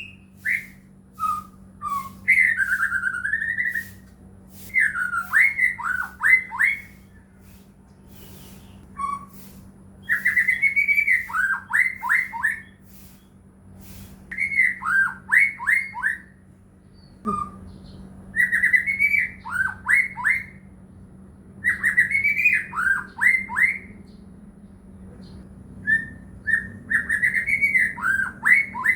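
White-rumped shama (murai batu) singing in full song, repeating one phrase every few seconds: a whistled note that slides up and down, then a quick run of falling notes. A faint steady low hum lies underneath.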